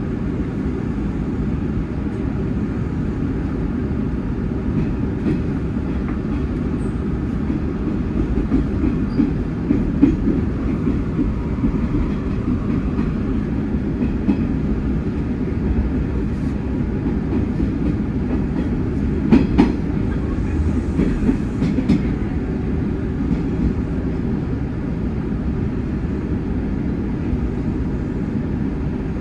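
Hanshin 9300 series electric train running, heard from the driver's cab: a steady low rumble of wheels and running gear, with clicks of the wheels over rail joints and points. The sharpest clatter comes about two-thirds of the way through.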